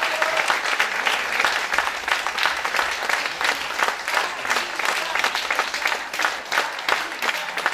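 Audience applauding, a dense patter of clapping that slowly thins out near the end.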